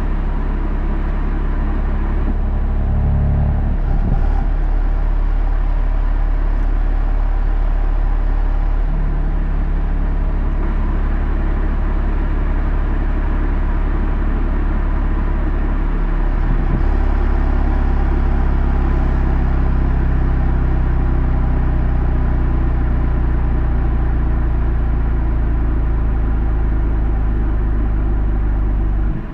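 BMW M3 F80's twin-turbo inline-six running under way with steady engine drone and road noise. The engine note breaks and changes briefly about four seconds in and again at about sixteen seconds.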